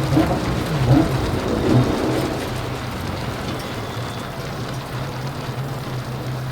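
Steady rain falling, with a rally car's engine running low and steady underneath after the stage finish. There are a few louder swells in the first two seconds, then the sound eases slightly.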